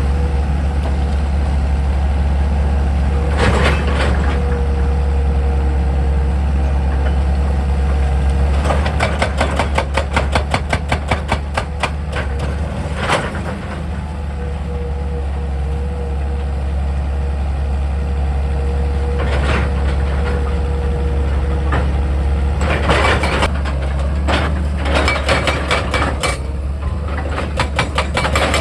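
Excavator's heavy diesel engine running steadily under a constant hydraulic whine. Twice it is broken by spells of rapid, regular knocking, about six a second: around nine to twelve seconds in, and again near the end. A few single knocks fall in between.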